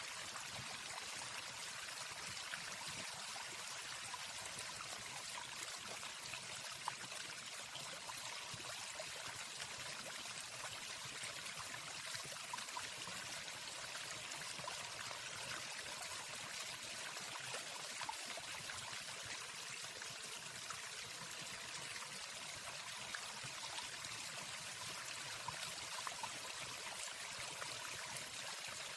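Waterfall: a steady, even rush of falling water, with no birdsong over it.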